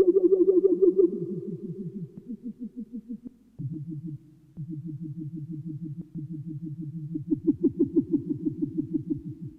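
Roland Alpha Juno-1 synthesizer sounding a low, rapidly pulsing note through delay and reverb, several pulses a second. The tone changes as it is edited: it drops quieter and lower a few seconds in, then grows brighter and louder near the end.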